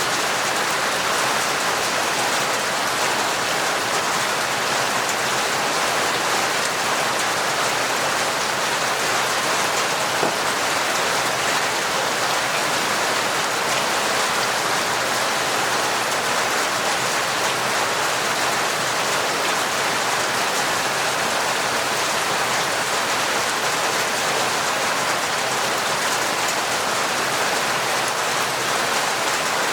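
Heavy, torrential rain falling steadily, an even hiss of rain with fine drop ticks throughout.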